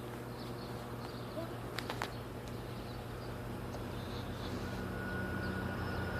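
An approaching GO train's diesel locomotive: a steady low engine hum that grows louder, with a thin steady whine joining near the end. Two light clicks about two seconds in.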